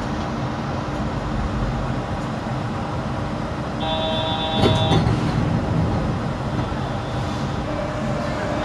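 Yurikamome rubber-tyred automated guideway train running: a steady rumble with a low hum. About four seconds in, a brief high tone lasts about a second and ends with a knock.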